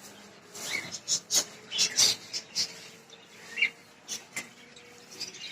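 Caged birds chirping in short, scattered high calls, with a few sharp clicks between them.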